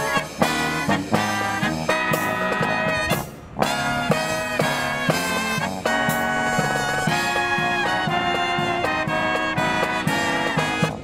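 Marching brass band playing a swing-style tune, with trumpets and trombones carrying the melody. The music breaks off briefly about three seconds in, then carries on.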